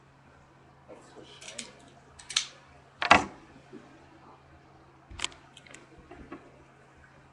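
Shoebox and packaging being handled during an unboxing: scattered rustles and clicks, with one sharp knock about three seconds in and another short cluster of clicks a couple of seconds later, over a faint steady hum.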